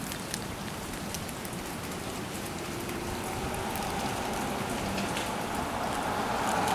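Rain falling during a thunderstorm, a steady hiss with sharp hits of single drops close by; the rain grows gradually heavier over the second half.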